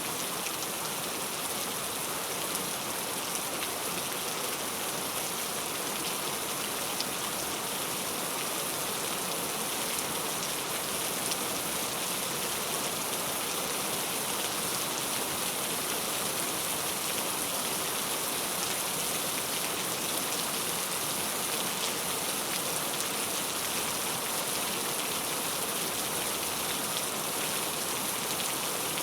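Heavy rain falling steadily: an even, unbroken hiss, brightest in the high end, with the odd sharper drop tick.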